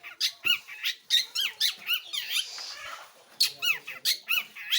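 Long-tailed shrike (cendet) singing: a quick run of short, arched, squeaky chirps, about four a second, broken in the middle by a harsher scratchy stretch.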